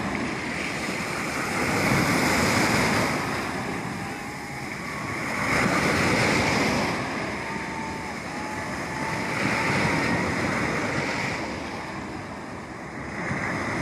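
Sea waves breaking on the shore, the surf swelling and easing in a slow rhythm, with a swell about every four seconds.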